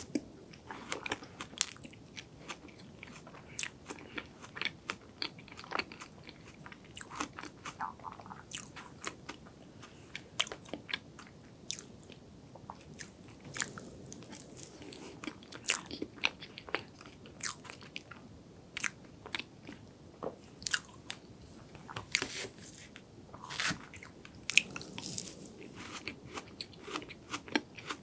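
Close-miked eating of chocolate cake with cream and strawberry: soft chewing broken by many sharp, irregular mouth clicks and smacks.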